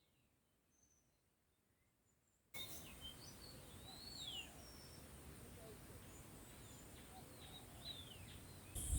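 Dead silence for about two and a half seconds, then faint outdoor ambience with scattered short bird chirps. A much louder noise starts right at the end.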